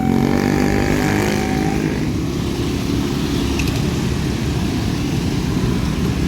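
Diesel locomotive running close by: a heavy, steady engine rumble, with the engine's pitch changing during the first couple of seconds.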